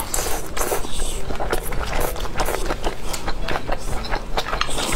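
Close-up mouth sounds of eating: chewing and biting into braised meat, a quick irregular string of wet clicks and smacks, over a steady low hum.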